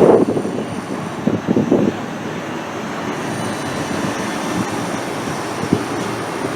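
Electric passenger train running on the track: a steady rumble of wheels on rail with a few short knocks, and a faint thin high squeal that starts about three seconds in and holds.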